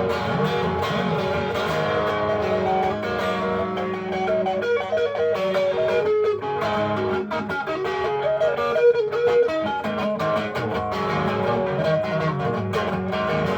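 Guitar playing an instrumental passage of the song, with no singing.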